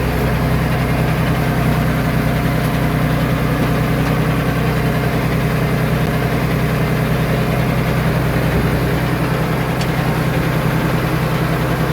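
Diesel engine of a Komatsu D21A mini bulldozer idling steadily, with no change in speed.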